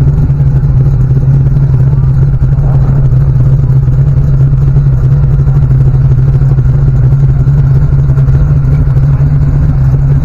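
A vehicle engine running loudly at a steady speed, a constant low hum with no revving.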